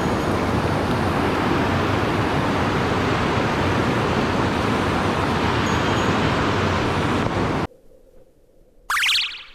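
Mountain stream water rushing, a steady full hiss that cuts off abruptly about three-quarters of the way through. A brief high sweeping sound follows shortly before the end.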